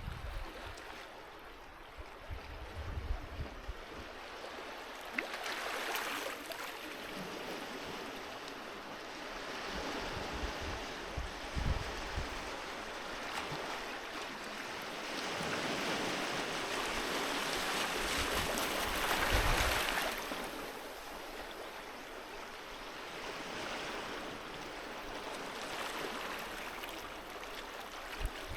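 Sea waves washing onto a beach, a steady rushing that swells and falls back over several seconds, with the biggest surge about two-thirds of the way through.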